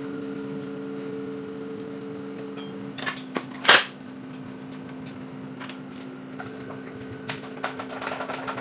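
Scattered clicks and knocks of tools and metal parts being handled, with one louder short hit about three and a half seconds in, over a steady hum.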